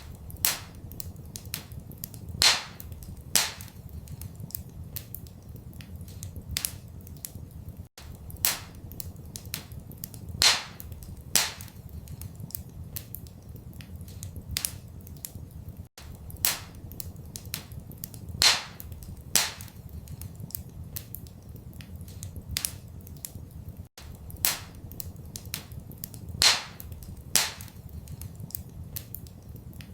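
Wood fire crackling in a fireplace: a steady scatter of small sharp pops, a few much louder snaps, and a low steady rumble underneath. The same run of pops repeats every eight seconds as a short loop.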